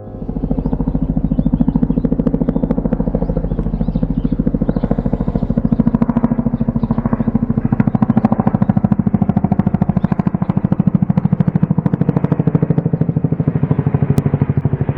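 Helicopter rotor chop: a rapid, steady beat of the blades with engine noise underneath, swelling over the first second and then holding.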